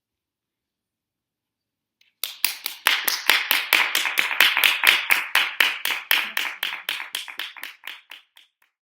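Hand clapping: a short round of applause that starts about two seconds in, with quick, evenly spaced claps that fade away near the end.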